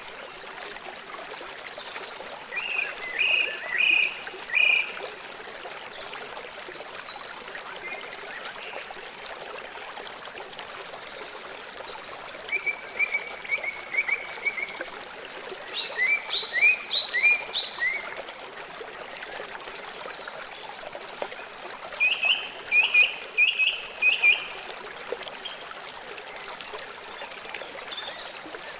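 A stream's running water makes a steady rush throughout. Over it, a small animal gives four bursts of short, quickly repeated high chirps.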